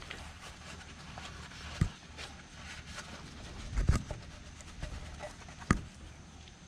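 Handling noises of hand work on parts: a sharp knock about two seconds in, a cluster of knocks and scrapes around four seconds in, and one more sharp knock near six seconds, over a low steady hum.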